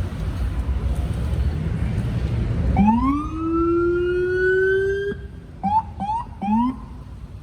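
F train subway train's horn: one long blast that slides up in pitch as it starts and then holds, followed by three short toots, after the steady rumble of the running train.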